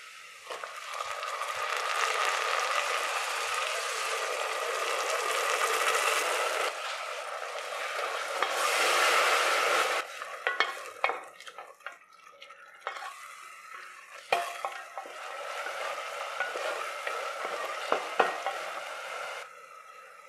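Chopped tomatoes and onions sizzling loudly in hot oil in a pressure cooker for about ten seconds. Then a spatula scrapes and knocks against the cooker while a mint paste mixture is sautéed, over quieter sizzling, which drops away shortly before the end.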